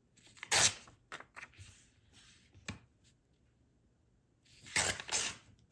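Paper being torn against the jagged edge of a tear ruler in short rips: one about half a second in and two more near the end, with light clicks and rustling between.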